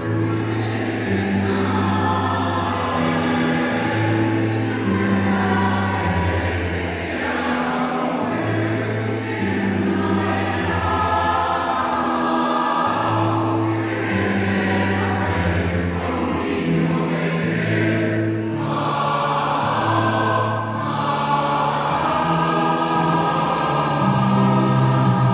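Choir singing a slow song in several parts, with long held low notes beneath the upper voices.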